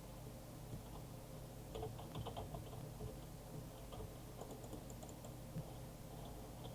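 Faint, irregular light clicks and ticks, a few a second, over a low steady hum.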